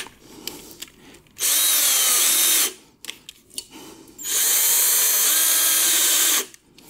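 Hand-held electric drill boring out a broken exhaust manifold stud, run in two short bursts of about one and two seconds with quiet pauses and small clicks between. The bit is near the end of the hole, so it is being worked gently in short runs to avoid snapping it.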